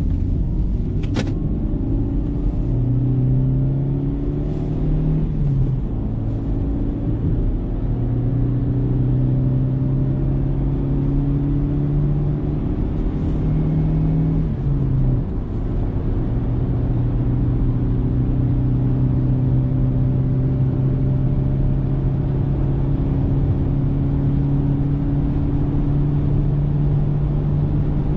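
Car engine pulling under way with road rumble, its pitch climbing as it accelerates and dropping back at each gear change, then holding steady. The engine has just had a carbon-cleaning spray run through its intake. A sharp click about a second in.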